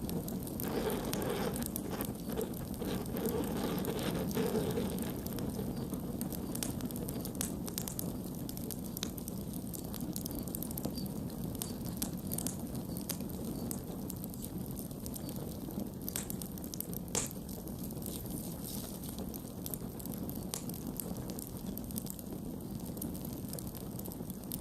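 Campfire burning: a steady low rush of flame with scattered wood crackles and pops, one sharper pop about two-thirds of the way through.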